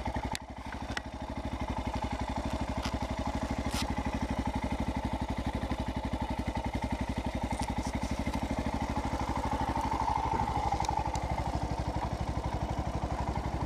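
Royal Enfield Himalayan's 411 cc single-cylinder engine running through a Red Rooster aftermarket exhaust, a steady, even beat of firing pulses with a brief dip about half a second in.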